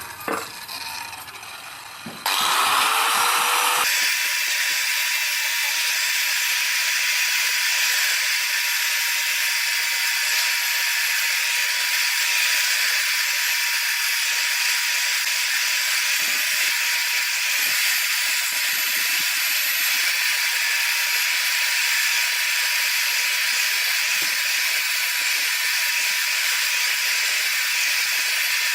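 A small electric power tool starts about two seconds in, its pitch rising as it spins up, then runs at a steady speed with a constant hum and a loud hiss.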